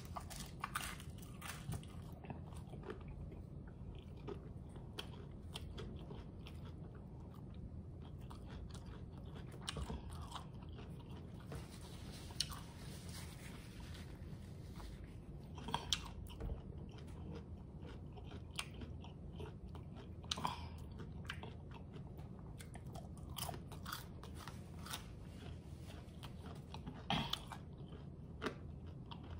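A person chewing crunchy hard-shell tacos close to the microphone: a steady run of small crisp crunches from the taco shell between the teeth, with a few louder crunches now and then.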